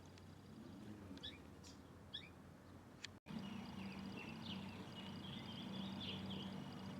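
Birds chirping faintly, with short, quick, downward-sliding calls in the first half and a longer run of chirping notes in the second half. The sound drops out for an instant a little after three seconds, and a faint low steady hum follows.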